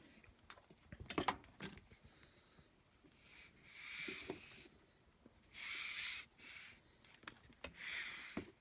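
Rubber ribbed dryer drive belts rubbing as they are handled and slid along each other, three rasping slides about a second each, after a few light knocks about a second in.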